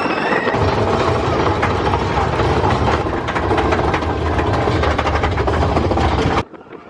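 Big Thunder Mountain Railroad mine-train roller coaster running fast along its track: a heavy rumble with rapid rattling and clacking, cutting off abruptly near the end.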